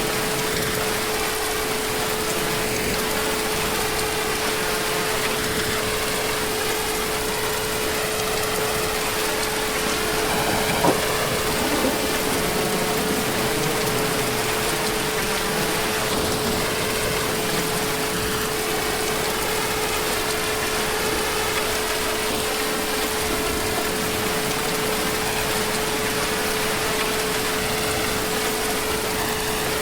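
Heavy rain falling as a steady, even hiss, with a thin steady hum underneath. A single sharp tap comes about eleven seconds in.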